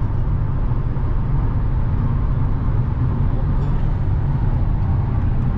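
Steady road and engine noise heard inside a car's cabin while cruising on the highway: a constant low rumble with tyre hiss above it.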